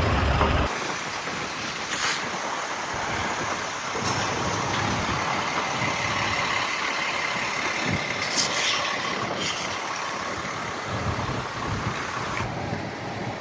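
Steady truck and freeway traffic noise, with a few brief high hisses. Music stops within the first second.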